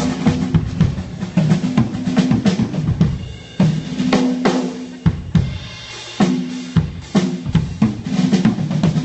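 Drum kit played at a soundcheck: quick runs of snare and bass drum hits and rimshots, with short ringing low notes between them. The playing thins out briefly about a third of the way in and again around the middle.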